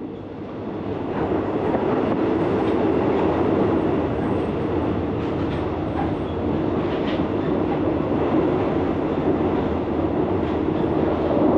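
Steady running noise of a passenger train heard from inside the carriage, with wheels rolling on the rails and a few faint clicks.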